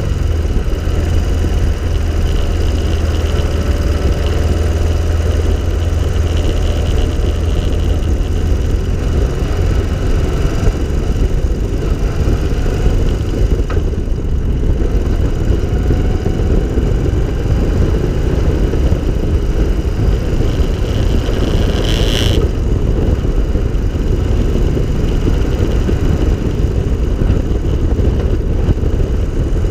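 Engine of an open three-wheeled cyclecar running steadily on the road, with heavy wind rumble on the microphone. One short sharp knock about three quarters of the way through.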